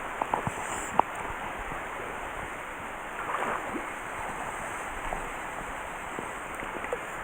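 Mountain headwater stream rushing steadily, with a few sharp clicks in the first second and a short louder rustle about three seconds in.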